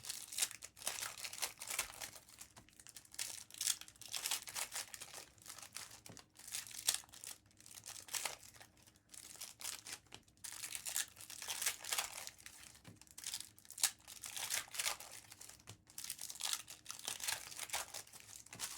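Topps Chrome trading-card pack wrappers crinkling and being torn open by hand, in irregular bursts of crackling with short pauses between.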